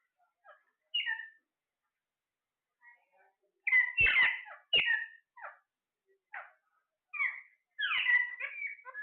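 Parrots squawking and chattering in a series of short calls, busiest about four seconds in and again near the end, with two brief low thumps among the calls about four seconds in.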